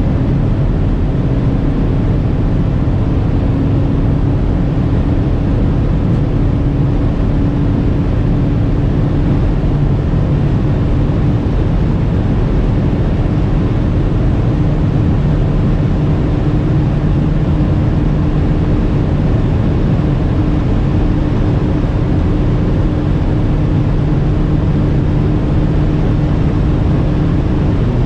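Audi SQ5's 3.0 TDI V6 diesel pulling at high autobahn speed under steady wind and tyre noise. The engine tone climbs slowly and evenly as the car gains speed toward its top speed.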